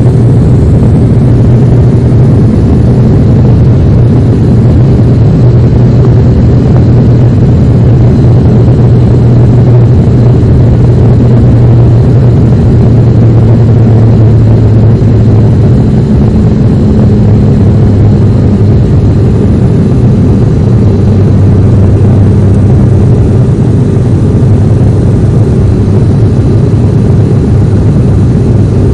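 Loud, steady drone of an aircraft's engine and propeller heard from on board. Its pitch drops slightly about halfway through.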